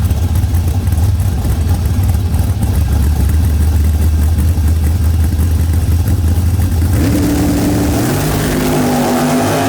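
Drag-racing car engine running with a deep, steady rumble, then about seven seconds in revving hard, its pitch climbing in steps as the car accelerates away.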